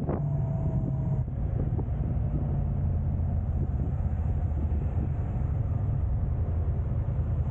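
Steady low rumble of a moving car's tyres and engine on the road, with a sharp click at the very start.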